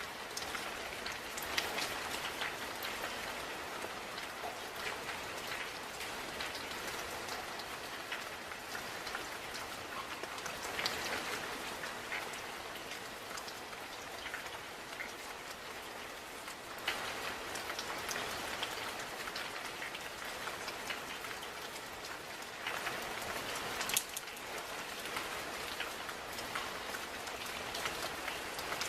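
Steady rain falling, an even hiss with individual drops striking close by now and then, one sharper drop hit near the end.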